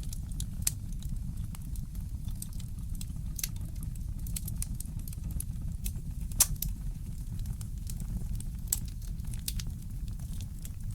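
Fireplace crackling: scattered sharp snaps and pops over a steady low rumble, with one louder pop a little past the middle.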